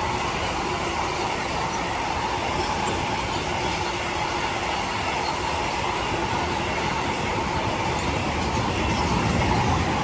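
Freight train's wagons rolling past on the rails, a steady rolling rumble with a faint steady whine from the wheels.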